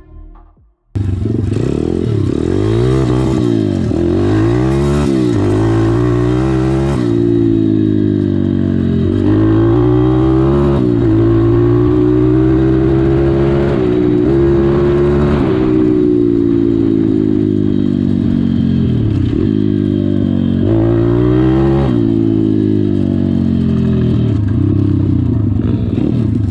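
Stomp Z3R-140 pit bike's 140cc single-cylinder engine being revved hard while riding. It starts about a second in, and its pitch climbs and drops again many times as the throttle is opened and shut for wheelie attempts.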